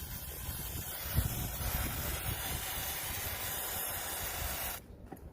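Aerosol spray-paint can spraying in one continuous hiss that cuts off suddenly near the end.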